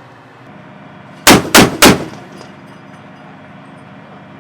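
M242 Bushmaster 25 mm chain gun firing a short burst of three rounds about a second in, over the steady low running of the vehicle's engine.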